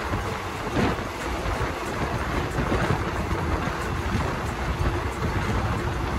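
Running noise of a passenger train heard from on board: a steady low rumble of the moving train mixed with rushing wind, with a brief louder swell about a second in.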